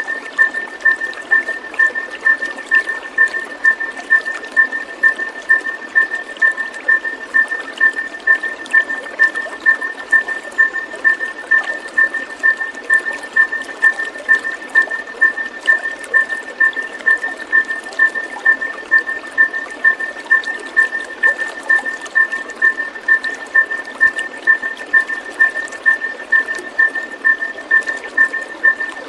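Steady trickling, splashing water with a single high chirp repeating evenly about twice a second over it, a fainter lower note pulsing with it.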